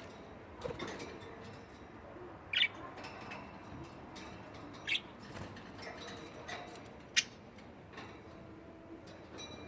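Pet budgerigars chattering softly, with three short, sharp chirps spaced a couple of seconds apart.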